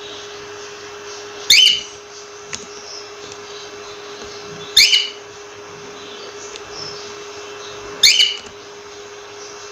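Cockatiel giving a short, rising whistled call three times, about every three seconds. A steady hum and hiss run underneath.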